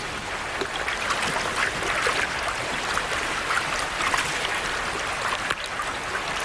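Shallow salmon creek water running, with irregular splashes throughout.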